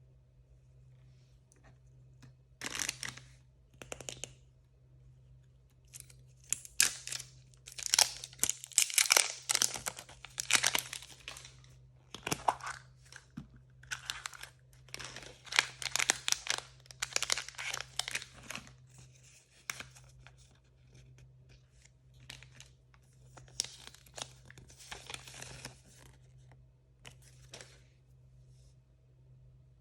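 Blind-bag packaging being torn open and crinkled by hand, in irregular bursts of tearing and rustling that are thickest in the middle stretch.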